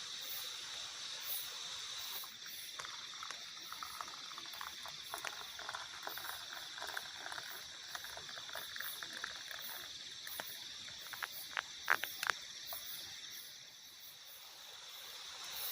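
Forest insects chirring steadily, with faster pulsing chirps higher up. Scattered crackles and sharp clicks join in, the loudest about twelve seconds in.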